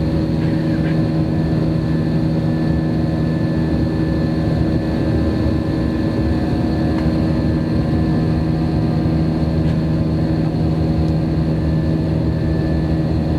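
Airbus airliner's jet engines and airflow heard from inside the passenger cabin: a loud, steady drone with several constant hum tones over a low rumble.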